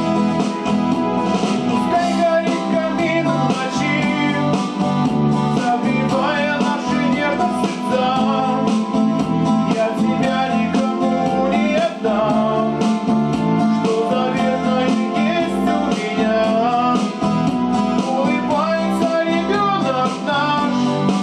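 Instrumental section of a song: a guitar plays over a steady backing beat, with a lead melody gliding in pitch above it.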